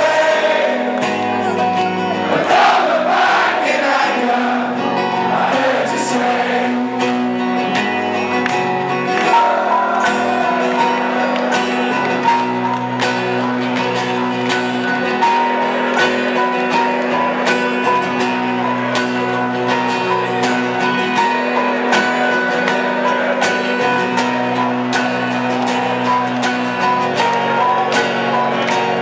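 Live rock band playing in concert, with singing in the first several seconds, then the band carries on over a steady drum beat.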